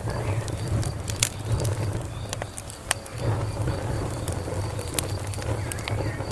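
Wood fire crackling: sharp irregular pops over a low steady rumble of flame. A few faint chirps near the end and a faint evenly pulsing high trill sit in the background.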